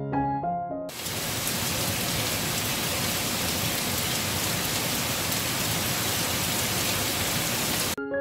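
Steady, even rain hiss that cuts in abruptly about a second in, replacing soft piano notes, and cuts off just as abruptly near the end, when the piano comes back.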